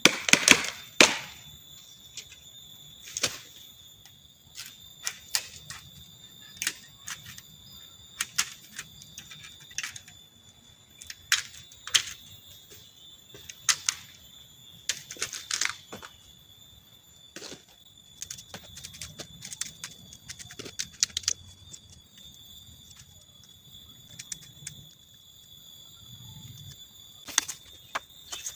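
Irregular sharp knocks and cracks of bamboo being cut with a blade, a few strokes at a time with pauses, the loudest cluster about a second in. Insects call steadily and high behind them.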